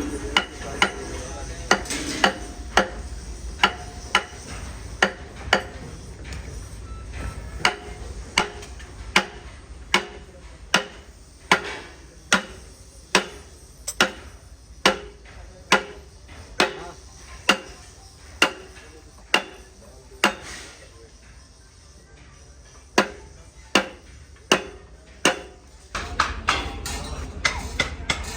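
Steady hammer blows on metal, a little more than one a second, each ringing briefly. The blows stop for a couple of seconds about two-thirds of the way through, then a few more follow.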